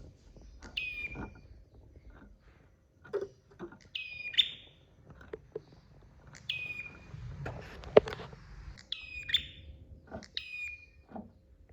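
Prenjak (prinia) giving a series of short, sharp chirping phrases, five in all, spaced a couple of seconds apart. Scattered clicks and taps fall between them, and a sharp click about eight seconds in is the loudest sound.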